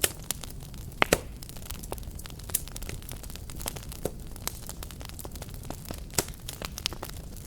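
Wood fire crackling: a steady low rumble of burning under irregular sharp pops and snaps, with a cluster of loud pops about a second in and another near six seconds.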